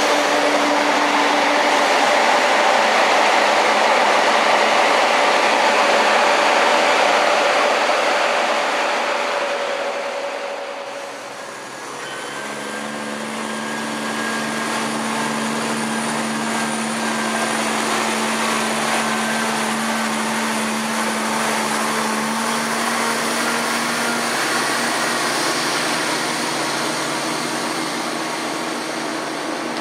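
Class 170 Turbostar diesel multiple units running through a station. For the first ten seconds a unit passes close with a loud, dense rush of engine and wheel noise. After a brief dip about eleven seconds in, a steadier diesel drone with a held low hum takes over.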